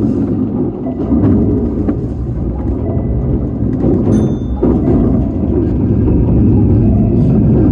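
Electric train heard from inside the car, running slowly into a station as it brakes to a stop: a steady, loud rumble of wheels on rail with faint clicks. A brief high-pitched tone sounds about four seconds in.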